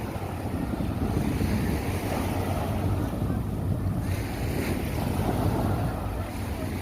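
Sea surf washing onto a beach, with wind rumbling on the microphone.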